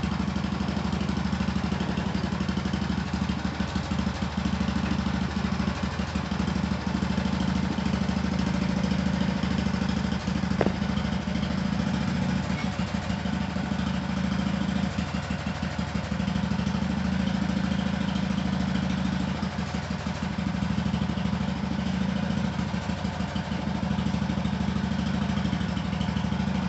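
A 1974 Sears ST/16 garden tractor's 8 hp Briggs & Stratton single-cylinder engine running steadily at idle while it pushes a pickup truck, with one brief click about ten seconds in.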